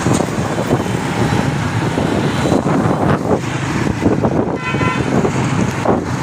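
Busy road traffic: a steady wash of vehicles passing, with a brief horn toot about four and a half seconds in.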